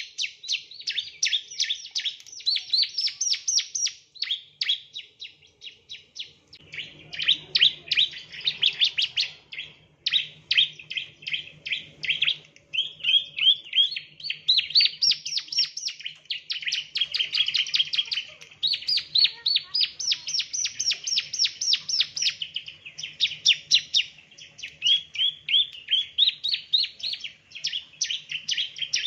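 Male bar-winged prinia (ciblek) singing: long runs of rapid, sharp chirps, many per second, each phrase climbing or dipping in pitch over a few seconds with short breaks between. A faint low hum sits underneath from about seven seconds in.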